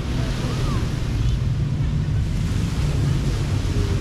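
Beach ambience: steady surf and wind, with a low rumble of wind on the microphone.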